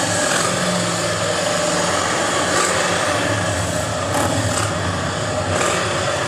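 Several engines idling steadily nearby, a low even hum with a few brief sharp sounds over it; Harley-Davidson motorcycles are parked all around.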